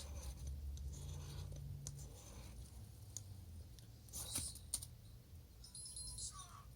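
Wood bonfire crackling, with scattered small pops and a sharper snap about four and a half seconds in.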